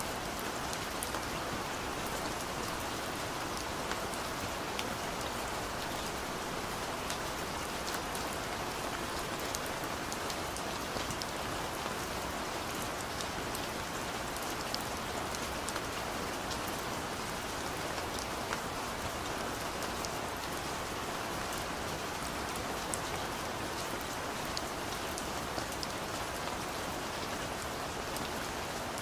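Steady rain falling on a car's roof and windows, heard from inside the cabin: an even hiss scattered with many small drop ticks.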